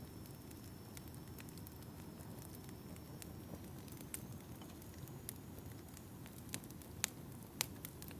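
Wood fire in a fireplace crackling, with a low steady rumble of flames and scattered sharp pops, the two loudest about a second apart near the end.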